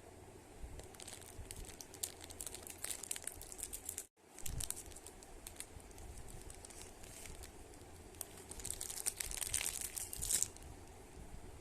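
Plastic wrapper of a Lotte Choco Pie crinkling and tearing as it is handled and opened, in irregular crackles. There is a brief break about four seconds in, and the crinkling is densest and loudest near the end.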